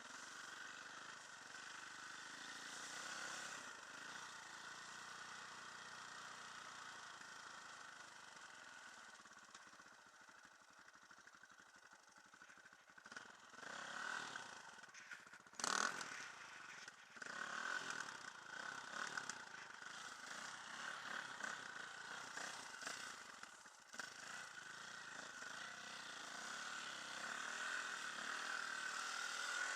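Enduro dirt bike engine running as it is ridden, its level rising and falling, with one sharp knock about halfway through.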